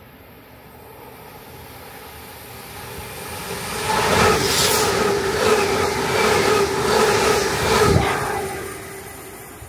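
TransPennine Express Class 397 electric train passing through a station without stopping. The sound builds as it approaches, is loudest for about four seconds as it goes by with a steady hum over the rumble of the wheels, then fades quickly as it moves away.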